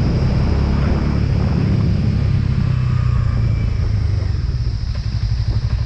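Motorcycle engine running steadily while riding, with road and wind noise over it; near the end the sound becomes uneven and pulsing.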